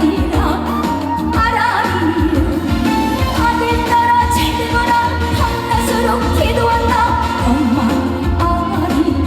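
A woman singing a Korean trot song live over a recorded backing track, with long held notes.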